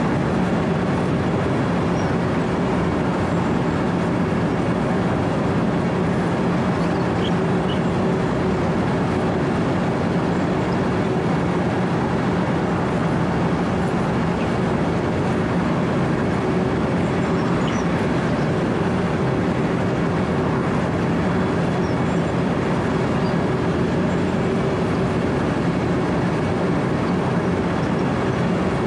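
Wirtgen W 120 CFi cold milling machine running steadily, its diesel engine humming under the grinding of the cutting drum as it mills asphalt at middle drum speed.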